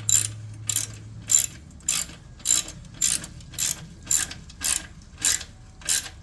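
A ratchet clicking in short, even strokes, about two a second, as it tightens a hose clamp on a motorcycle slip-on muffler.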